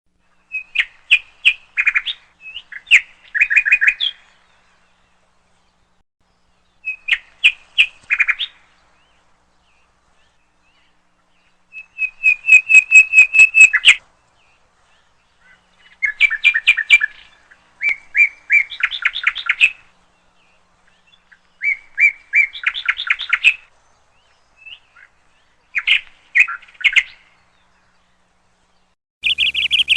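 Bird chirping in quick runs of short, high, repeated notes: a phrase of one to two seconds every few seconds, with dead silence between the phrases.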